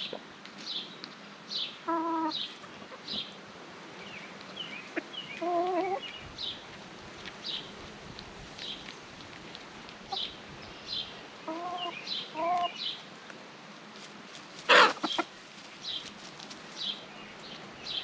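Hens clucking now and then, with short high chirps repeating about every second throughout and one brief loud burst about fifteen seconds in.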